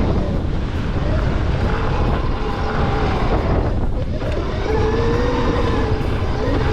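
Wind rushing over the microphone, with the thin whine of the Gowow Ori electric dirt bike's motor wavering up and down in pitch, clearer in the second half.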